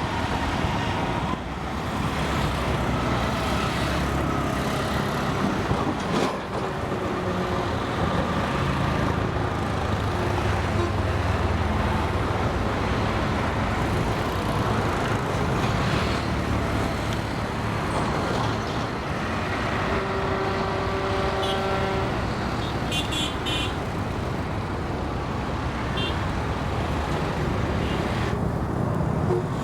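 Boat diesel engine running steadily on the river, with the rush of water and wind. Near the two-thirds mark a boat horn sounds once for about two seconds.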